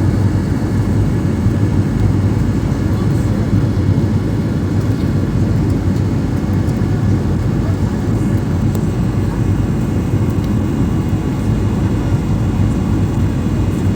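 Steady low engine and air rumble inside an airliner's cabin during the descent to landing.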